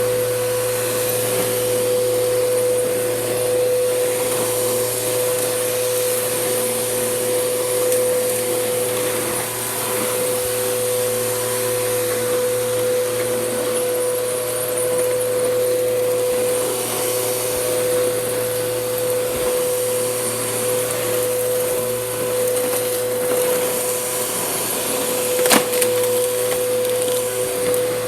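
Bissell Powergroom Helix Rewind upright vacuum cleaner running steadily, its motor giving a constant whine over the suction noise. A single sharp knock sounds near the end.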